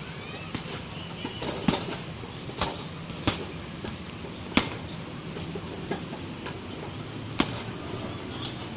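Irregular strikes landing on a large heavy punching bag, about eight sharp thuds spaced unevenly, the loudest about two seconds and four and a half seconds in.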